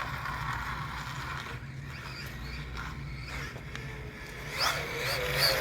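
Losi 1/4-scale Promoto-MX electric RC dirt bike under throttle: the motor whirs and the tyre scrabbles, with a quick rising whine near the end as it speeds up.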